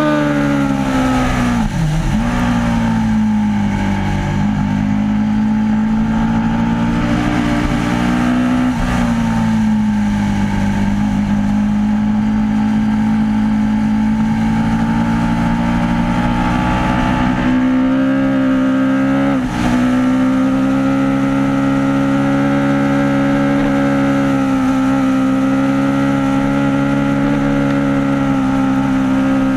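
Aprilia RSV4 APRC's V4 engine running loud at fairly steady revs, its pitch dipping sharply and briefly three times, about two, eight and nineteen seconds in.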